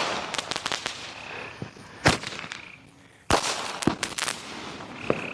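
Fireworks going off in a firework fight: a bang at the start, louder sharp bangs about two and three seconds in, and scattered crackling pops between them.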